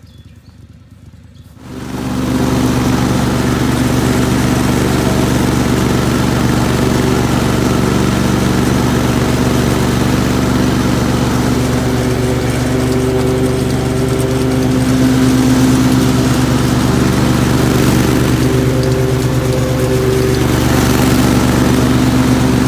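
Mini tractor engine running steadily at close range, a loud, even drone that comes in suddenly about two seconds in.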